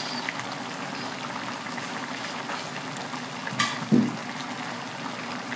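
Pork stew with vegetables and mushrooms simmering in an aluminium wok over a low gas flame: a steady, soft sizzling bubble. Two light knocks come about three and a half to four seconds in.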